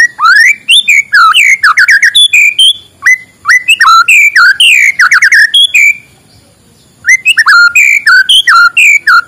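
White-rumped shama singing: fast runs of loud, whistled notes sweeping up and down, in three bursts with short pauses, the longest about six seconds in.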